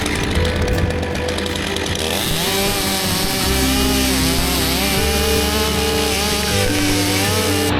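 A chainsaw cutting wood, its pitch wavering up and down as the cut loads it, over background music with steady low notes.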